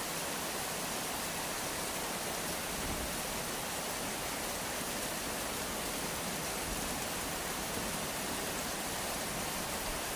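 Steady rain falling, an even hiss with no single drops, knocks or thunder standing out.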